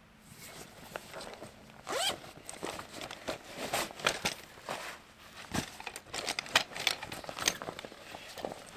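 Irregular rustling, scraping and clicking of camp gear being handled, with a rising scrape about two seconds in.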